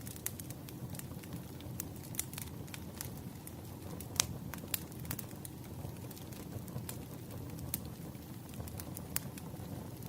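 Wood fire crackling: a steady low rumble of flames with frequent irregular sharp pops and snaps, the loudest pop about four seconds in.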